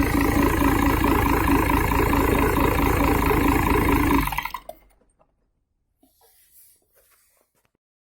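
Iveco Eurocargo's FIAT 8060.45B 177 hp six-cylinder diesel engine running steadily, then shut off a little over four seconds in and running down to a stop. After that there is near silence with a few faint clicks.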